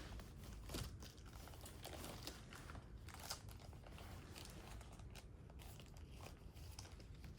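Faint crinkling and rustling of a comic book blind bag's wrapper being handled and opened, with scattered small clicks.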